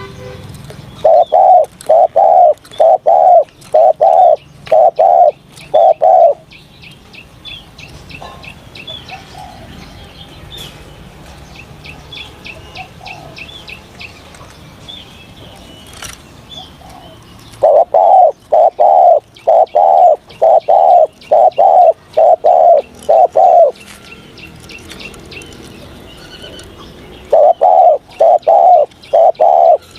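Spotted dove cooing in three loud bouts of evenly repeated notes, about two a second, with faint high bird chirps in the pauses between bouts.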